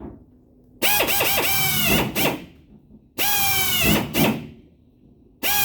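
Power drill boring holes through the truck's sheet-metal quarter panel, run in three short bursts: twice fully, then a third starting near the end. In each burst the motor's whine sags a little in pitch as the bit bites.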